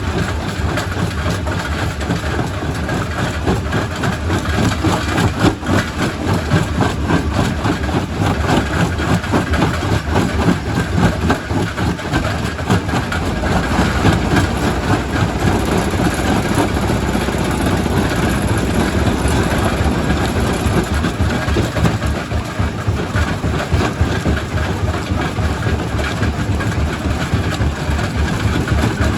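Quarry primary rock crusher at work: continuous heavy machinery noise with dense knocking of stone being crushed, over a low engine drone that grows stronger about halfway through.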